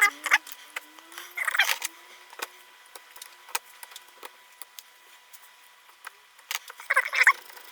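Small clicks and short bursts of scratchy rattling from hand work on an opened cordless hammer drill's plastic housing and wiring. There is a burst just after the start, another about a second and a half in, and a third near the end, with scattered single clicks between them.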